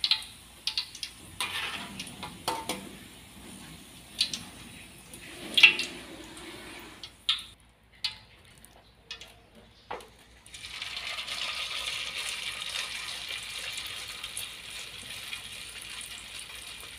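A metal spatula clinks and scrapes against a metal strainer of fried corn fritters. About ten seconds in, a steady sizzle starts as corn-and-flour batter fries in hot oil in a wok.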